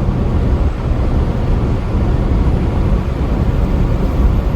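Steady engine drone and road noise of a loaded-down truck driving at highway speed, heard from inside the cab, with the rumble heaviest in the low end.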